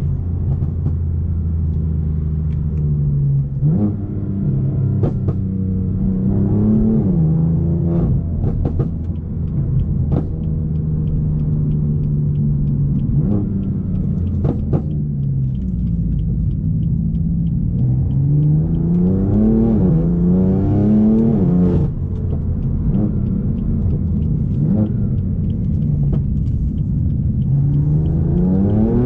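A tuned BMW M4's twin-turbo inline-six running through a decatted, straight-piped Akrapovič exhaust while driving. The engine note holds steady for stretches and rises and falls as the car accelerates and eases off, with a few sharp cracks along the way.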